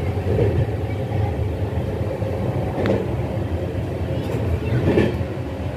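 Steady rumble of an LHB passenger coach running on the rails, heard from the rear of the moving train. There is a sharp click about three seconds in and a louder knock near five seconds.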